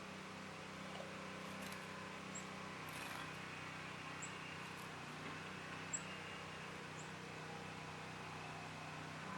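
Quiet outdoor ambience with a steady low hum, broken by four short, very high-pitched bird chips spread a second or two apart.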